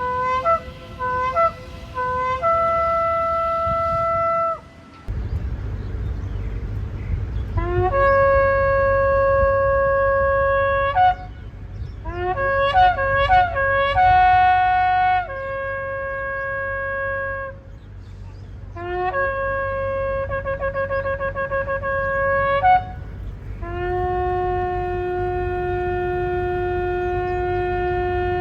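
Shofar (ram's horn) blowing a series of blasts. There are broken short notes early on, held notes that each scoop up in pitch at their start, and a quick run of short staccato notes about twelve seconds in. A long steady blast closes the stretch. A steady low rumble runs underneath from about five seconds in.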